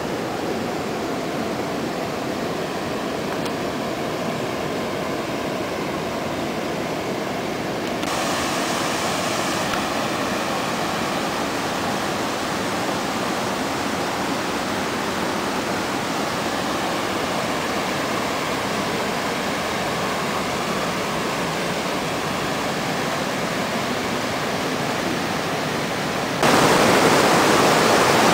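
Rushing water of the Montmorency River, a steady roar. It gets a little louder about 8 seconds in and jumps clearly louder near the end.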